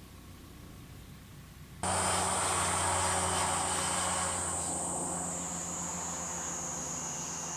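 Insects chirring in a high, steady buzz that starts suddenly about two seconds in, over a low hum; the buzz drops slightly in pitch partway through.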